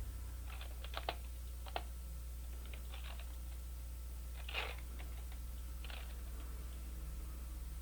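A few scattered clicks of a computer keyboard and mouse, one every second or so with gaps, over a steady low electrical hum.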